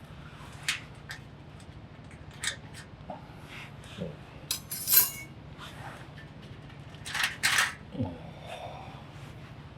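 Camp cookware and utensils being handled: scattered clinks and knocks of metal and dishes, the loudest about halfway through and a close pair near the end, one followed by a brief ringing.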